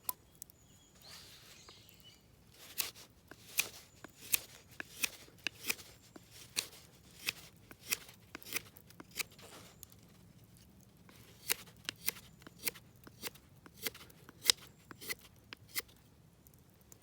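Knife whittling a cherry-wood stick, a crisp snick with each stroke as a shaving comes off, about one to two cuts a second with a short pause near the middle.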